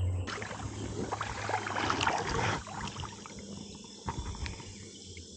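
Water sloshing and splashing with scattered clicks and handling knocks, busiest for the first two and a half seconds and then fainter.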